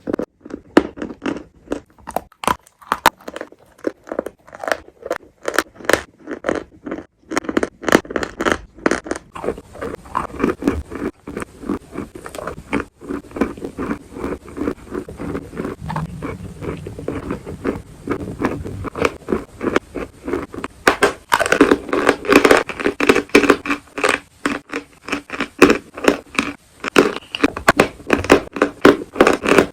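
Close-up crunching of edible chalk being bitten and chewed: many sharp, crackly crunches a second, without a break, growing denser and louder about three-quarters of the way through.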